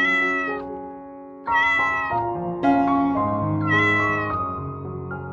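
A domestic cat meowing three times, short calls that rise and fall, over piano music.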